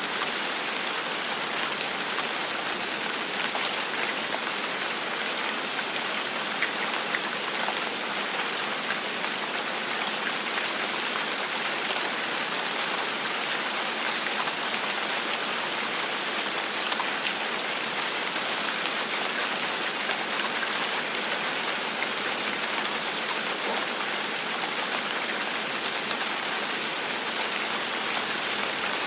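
Steady gentle rain falling on a surface, a dense even hiss with many small individual drop patters, with no thunder.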